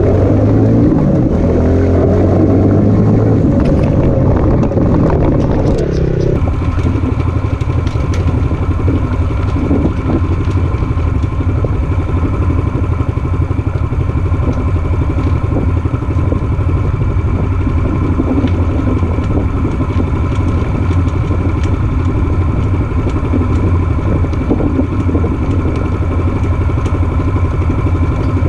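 Case JX85 tractor's diesel engine running while the tractor is driven. Its pitch wavers for the first six seconds or so, then the sound changes abruptly to a steady drone with a constant whine.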